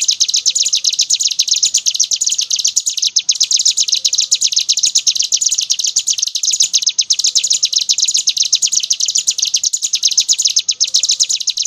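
Ciblek gunung, a prinia, singing a long, unbroken, very rapid high-pitched trill: the continuous 'ngebren' song that birdkeepers prize.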